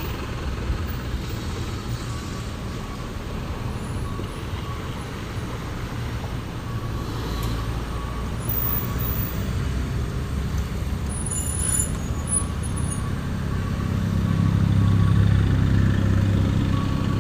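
Heavy diesel truck traffic: engines running with a low, steady rumble that grows louder near the end as a truck comes close.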